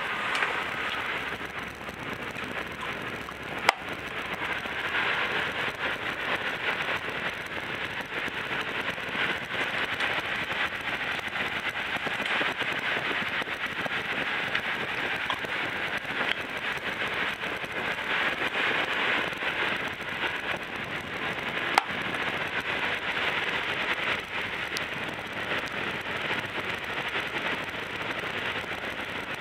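Steady dense crackle of rain pattering, mixed with electric-fan wind blowing on a camcorder microphone that is covered with sponge to cut the wind noise. Two sharp clicks stand out, about 4 seconds in and about 22 seconds in.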